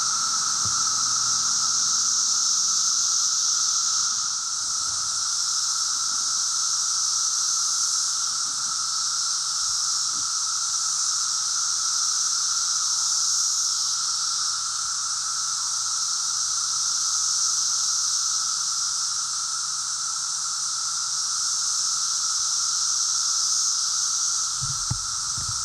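Chorus of periodical cicadas: a dense, steady buzzing drone with a lower whine and a stronger high hiss sounding together.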